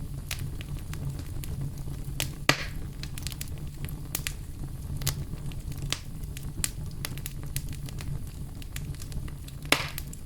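Campfire burning: a steady low rumble of flames with frequent small crackles, and two louder pops, one about two and a half seconds in and one near the end.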